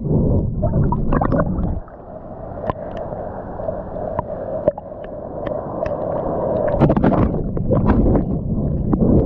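Ocean water splashing and gurgling around a swimmer, with sharp splashy clicks over a low rumble. It drops to a quieter, hissing stretch about two seconds in and comes back loud about seven seconds in.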